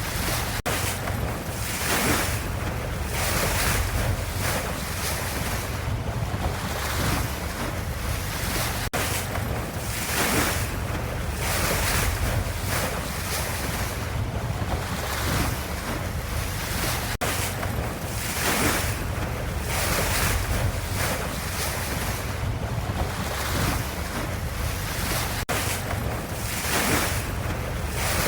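Ocean waves and surf, an even hiss that swells and ebbs about every two seconds, with a brief dropout roughly every eight seconds.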